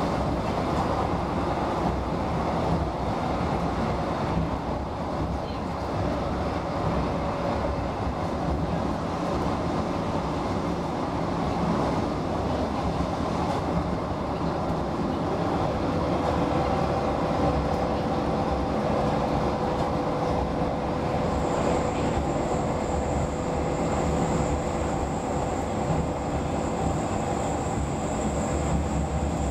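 Interior running noise of a Roslagsbanan X10p electric railcar travelling at speed: a steady rumble from the moving train. A steady tone comes in about halfway through, and a thin high-pitched tone joins later.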